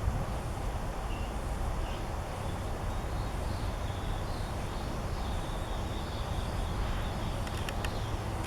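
Steady low outdoor rumble, with faint short bird chirps high above it now and then. A few sharp clicks come near the end.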